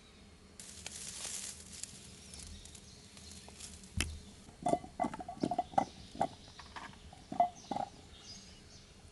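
Brief rustling, then a sharp knock followed by a quick run of a dozen or so short, hollow knocks and taps.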